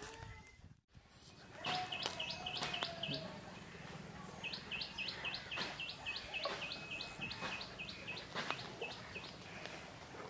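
A bird calling in rapid series of short, high chirps, about three a second: a short run about two seconds in, then a longer run from about four and a half seconds to near the end.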